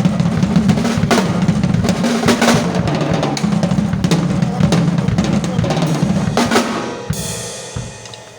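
Drum kit played hard, with dense fast strokes on the bass drum and snare. About seven seconds in the playing stops on a cymbal crash that rings out and fades.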